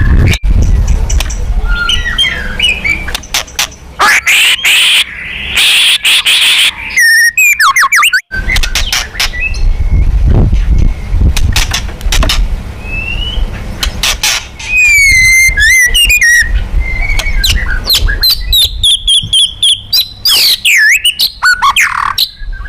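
White-rumped shama (murai batu) singing a loud, varied song of clear whistles, fast trills and sweeping notes, with sharp clicks between phrases.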